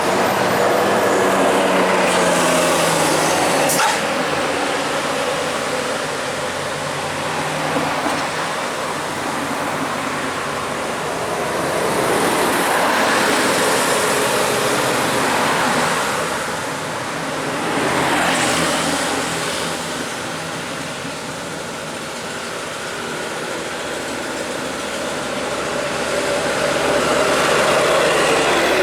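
Road traffic with heavy vehicles going by: continuous engine and tyre noise that swells and fades several times as vehicles pass.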